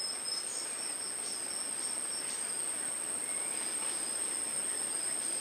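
Chorus of insects calling with steady, unbroken high-pitched trills at two pitches over a soft hiss.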